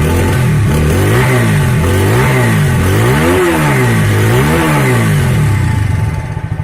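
TVS Apache RTR 160 4V's single-cylinder engine through its stock exhaust, revved up and dropped back about once a second in a string of throttle blips, settling toward idle near the end.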